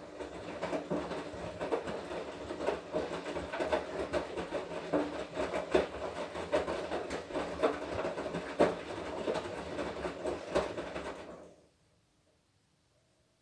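Washing machine drum turning with a load of laundry, a steady rattling run full of irregular knocks and clicks that stops abruptly about eleven seconds in.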